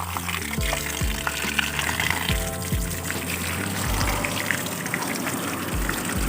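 Water running and splashing from a tap while toys are washed, under background music with a steady drum beat.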